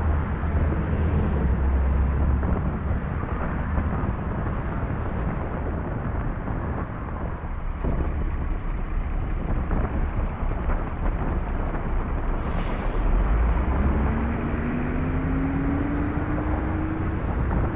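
Car engines and road noise on a snowy street, steady throughout. Near the end a whine rises slowly in pitch for about three seconds.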